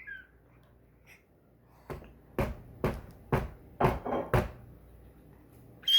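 A run of about six sharp knocks or thumps, roughly two a second, starting about two seconds in.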